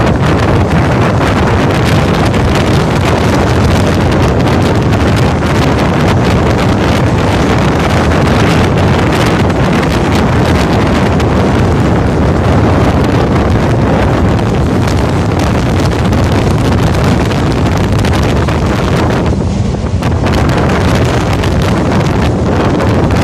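Passenger train running across a steel girder bridge: a steady loud rumble with wind buffeting the microphone at the open door or window. It dulls briefly near the end.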